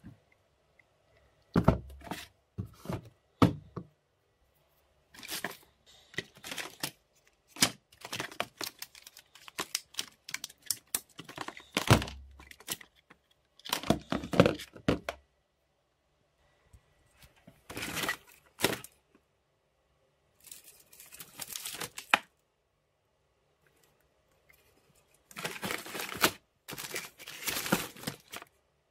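Irregular hand-work noises in a small room: sharp knocks and thumps mixed with short tearing and scraping strokes, separated by pauses, with a run of longer tearing strokes near the end.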